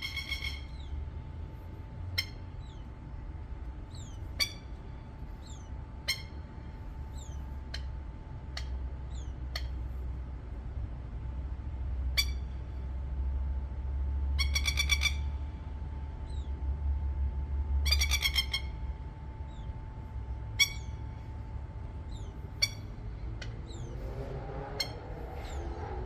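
A plover giving short, sharp, ringing calls every couple of seconds, breaking twice into fast rattling runs of calls, over a low rumble.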